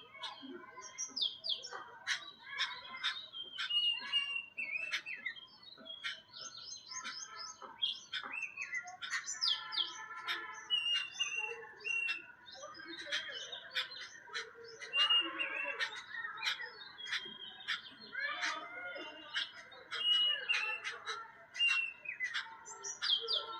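A flock of jungle babblers chattering: many short, sharp calls overlapping without a break, mixed with short falling whistles.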